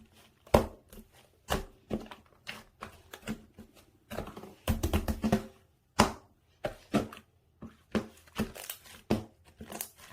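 Slime being pressed and stretched by hand, giving sharp clicky pops of trapped air about once or twice a second. A denser run of crackling squelches comes a little before halfway.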